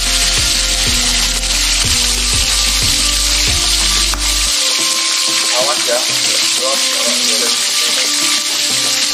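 Chillies and other sambal ingredients sizzling steadily as they fry in hot oil in a wok.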